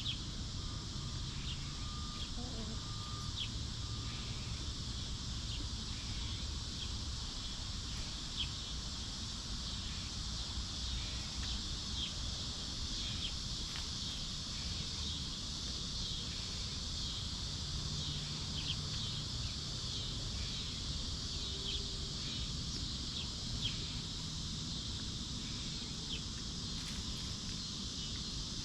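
Orchard ambience: a steady high insect drone with small birds chirping in short calls throughout, over a low steady rumble.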